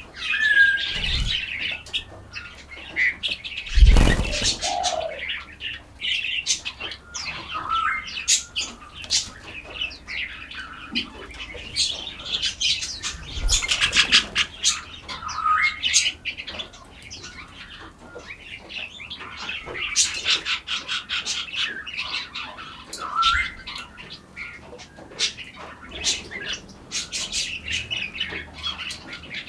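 A chorus of forest songbirds chirping and twittering in quick, overlapping calls, with a few short sliding notes. A handful of brief low thuds cut through, the loudest about four seconds in.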